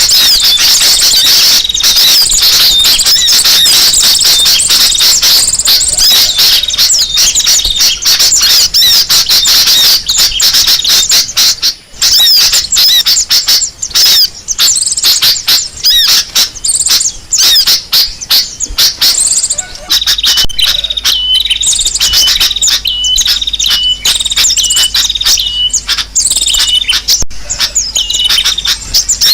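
Bird-lure recording of many small birds chirping and chattering noisily at once, loud and dense. About two-thirds of the way through it changes to a run of short repeated high notes, a little more than one a second, over continued chirping.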